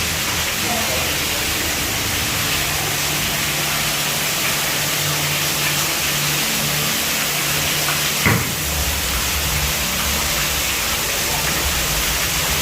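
Large indoor waterfall rushing steadily, a dense even hiss of falling water and spray, with a single brief knock about eight seconds in.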